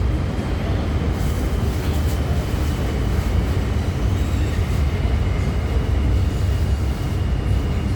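MTR M-Train electric multiple unit running at speed through a tunnel: a steady, heavy rumble of wheels on rail and running gear, with a faint high whine over it.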